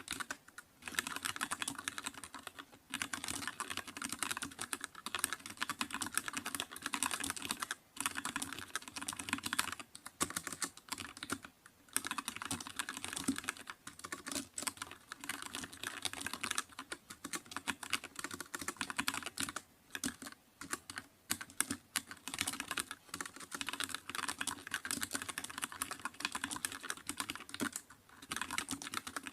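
Fast typing on a computer keyboard: a dense, continuous stream of key clicks, broken by short pauses every few seconds.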